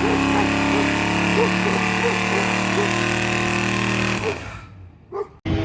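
Car engine running at a steady speed, fading out a little over four seconds in; another engine starts abruptly just before the end.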